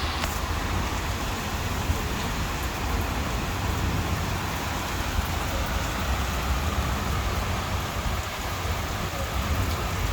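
Heavy rain falling steadily, a dense even hiss with a deep rumble underneath.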